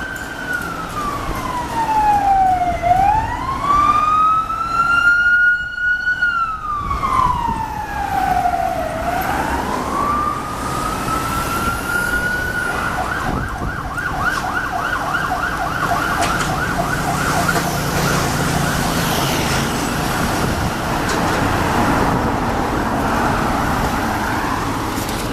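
Siren of an unmarked police car responding to a call. It first wails slowly up and down, then switches about halfway through to a fast yelp that runs to the end, over the rumble of traffic.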